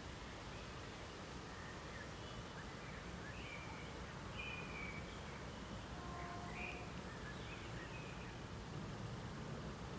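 Faint outdoor background noise, a steady low rumble, with scattered short bird chirps.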